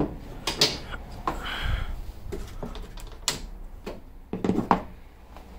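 Scattered clicks and knocks, several seconds apart, with a short rustling noise about a second and a half in.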